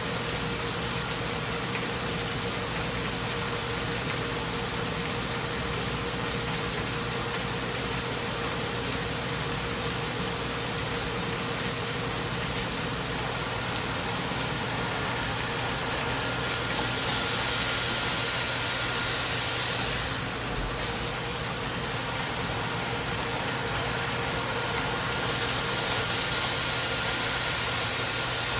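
CNC lathe running through a threading pass on a tapered pipe-thread box: a steady machine hum under a constant hiss of coolant spray. The hiss swells louder twice in the second half, then eases back.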